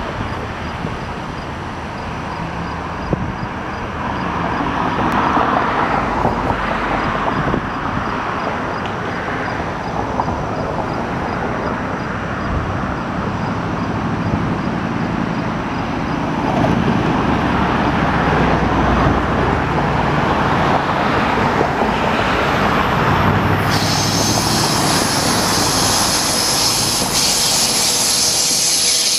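GO Transit bi-level commuter train approaching, cab car leading, its running noise steadily growing louder as it nears. Late on, a sharper hiss of wheels on rail comes in as the train draws close.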